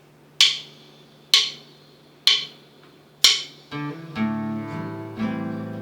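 Four sharp clicks about a second apart count the song in, then an acoustic guitar starts playing chords about three and a half seconds in.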